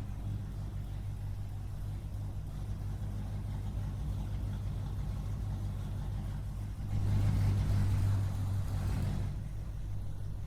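A small engine running steadily with a low hum, getting louder and rougher for about two seconds partway through, as if revved, then settling back.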